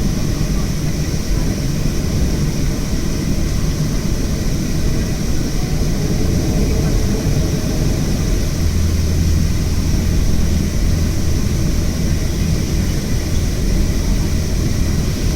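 Boeing 737-500's CFM56 jet engines running with a steady, loud noise and a low hum that grows a little stronger about halfway through.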